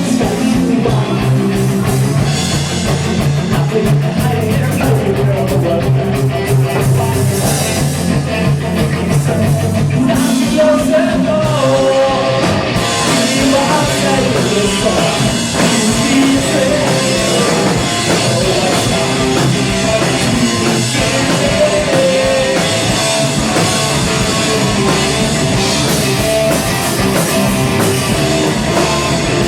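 A live rock band playing loudly and steadily, with electric guitar and drum kit. A wavering melody line comes in about ten seconds in.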